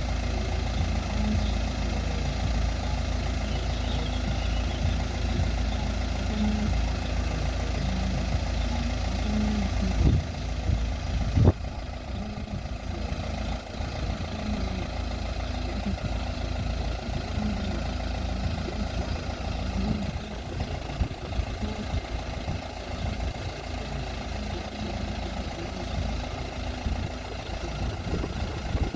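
Steady low rumble of vehicle engines idling, with two short knocks about ten and eleven and a half seconds in.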